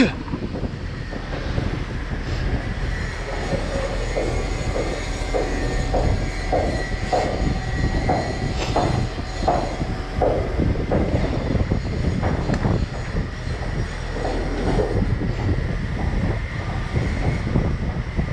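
Heavy machinery noise with wind rumbling on the microphone. Through the middle comes a string of short metallic squeaks or creaks, about two a second.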